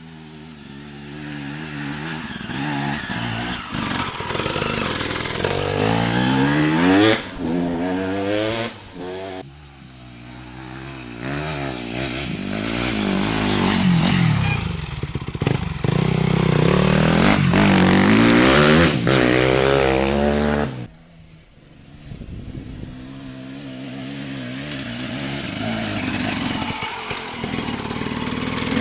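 Motocross motorcycle engines revving hard, the pitch repeatedly climbing and falling as the throttle is worked, growing louder in swells. About two-thirds of the way through the sound drops away suddenly, then builds back up.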